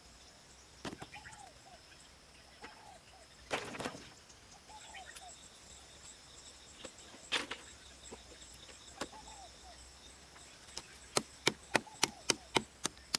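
Bamboo being chopped: a few scattered sharp knocks, then near the end a quick regular run of strikes, about four a second. Insects drone steadily throughout, with short chirping calls now and then.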